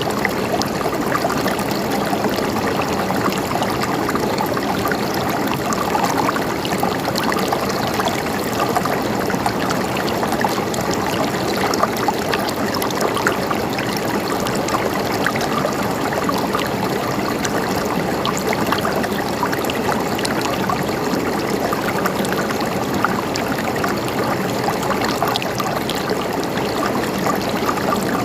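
River water flowing and gurgling steadily over rocks, a continuous rush with many small splashes and trickles.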